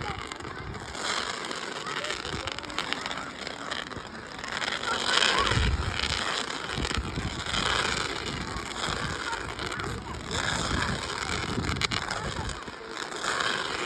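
Indistinct chatter of a crowd of spectators, with wind buffeting the microphone and a brief low rumble about five and a half seconds in.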